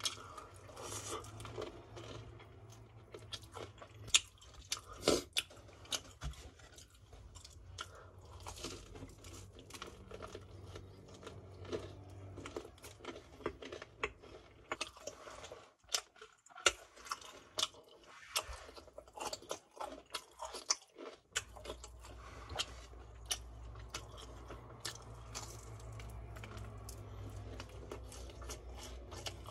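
Close-up chewing of crispy fried chicken: the seasoned, powder-coated batter crunches and crackles in quick irregular bites, with wetter chewing between them as the meat is eaten off the bone.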